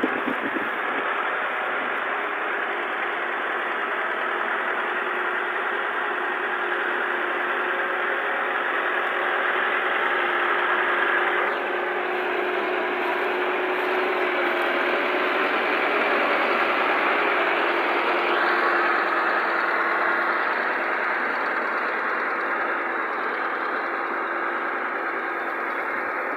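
Tractor diesel engine running steadily, with one brief dip in level about halfway through.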